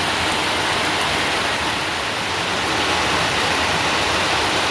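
Heavy rain falling, a steady dense hiss with no pauses or separate drops standing out.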